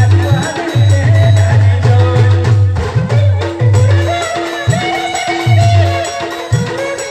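Adivasi band music: a fast, driving low drum beat under a repeating note and a wavering melody, with a brief break in the beat about halfway through.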